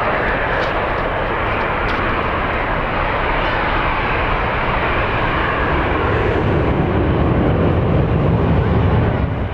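Jet airliner engine noise as an aircraft passes, with a low rumble swelling near the end and then dropping off, mixed with gusting wind on the microphone.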